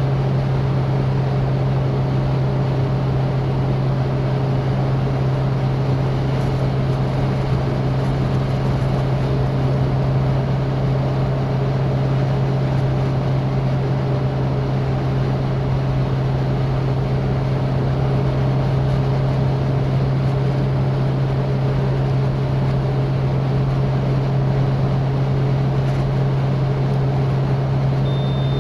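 Citroën DS four-cylinder engine running at a steady cruise, one constant drone that holds its pitch, with a steady rush of noise over it. A short high tone sounds once near the end.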